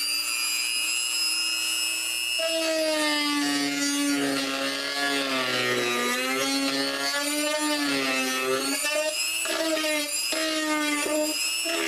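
Dremel rotary tool running at speed setting 4 with a steady high whine. From about two and a half seconds in, its pitch sags and wavers as the bit is pressed into the material, grinding it away to enlarge the opening for a fitting.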